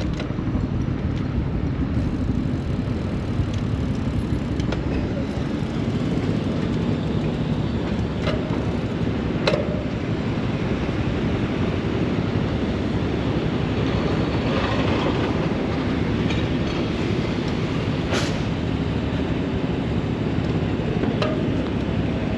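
Steady low rumbling road and traffic noise heard from a moving bicycle in city traffic, with a few scattered clicks and knocks.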